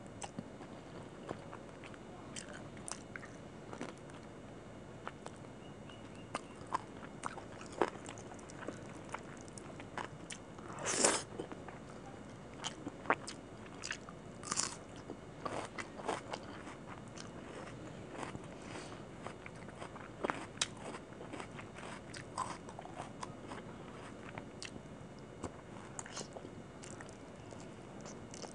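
Close-miked eating by hand: chewing and crunching mouthfuls of rice with chicken curry and a crispy fried topping, with many small wet mouth clicks. Two louder crunches come about eleven and fourteen and a half seconds in.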